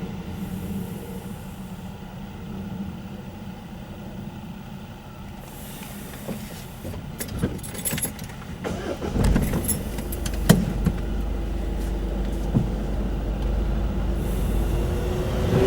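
Road vehicles idling and then moving off at a level crossing, a low engine rumble that grows from about nine seconds in, with a scatter of sharp clicks and knocks in the middle and a vehicle passing close near the end.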